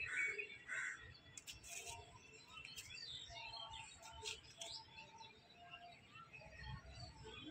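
Small birds chirping, a scatter of short high notes and calls coming and going.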